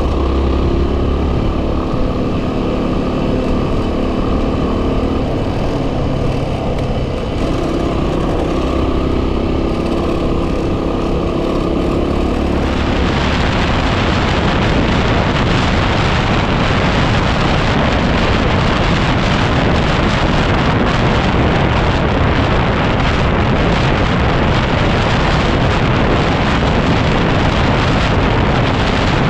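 Yamaha WR250R's single-cylinder four-stroke engine running under way on a dirt track. About halfway through, heavy wind buffeting on the microphone swamps the engine and stays.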